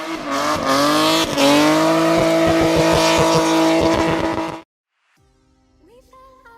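Rally car engine at high revs, its pitch climbing and then holding, with a quick run of sharp cracks over the top; it cuts off abruptly about two-thirds of the way in. Quiet music starts near the end.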